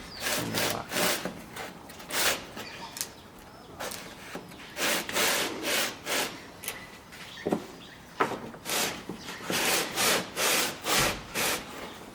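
Hand saw cutting wood in short back-and-forth strokes, in irregular runs with brief pauses between.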